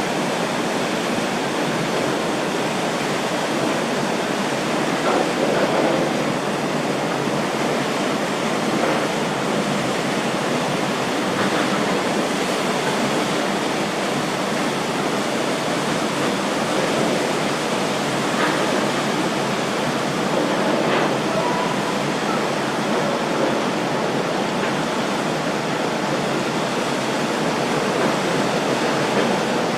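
Steady rushing of wind and water around a fast catamaran ferry under way.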